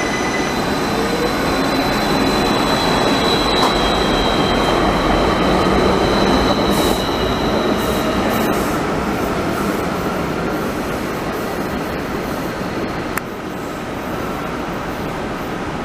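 Light rail train running on its track: a steady rumble with a thin high squeal over it. The rumble eases and drops off suddenly near the end.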